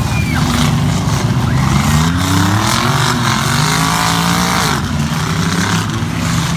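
Race truck engines running together, one of them revving up with a climbing pitch for a few seconds before backing off about five seconds in.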